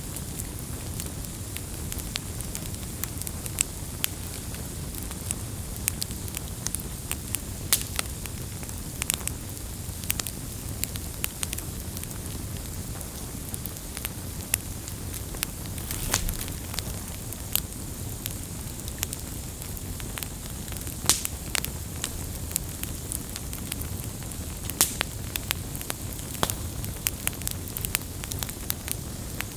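Wood fire burning, with a steady low rumble of flame and frequent sharp, irregular crackles and pops from the burning logs.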